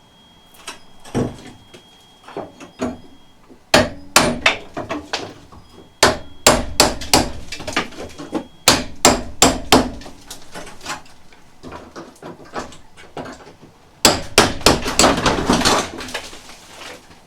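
Hammer blows knocking the cement-patched chimney stub off a metal shed roof: sharp strikes, several a second, in uneven runs with pauses, the densest runs in the middle and near the end.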